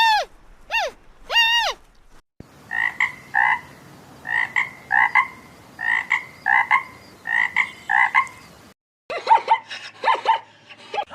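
Frog croaking in short notes that come in pairs, repeated steadily for about six seconds. A few clear, arched calls of another animal come before it, and a quick run of down-sweeping calls follows near the end.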